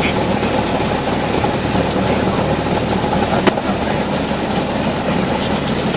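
Cessna 172's piston engine running steadily at low power, with one short sharp click about three and a half seconds in.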